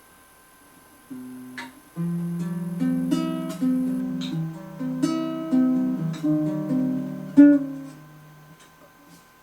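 Mini acoustic guitar being played: a first note about a second in, then a flowing phrase of plucked chords and single notes, with one sharp, louder strum near the end that rings out and fades.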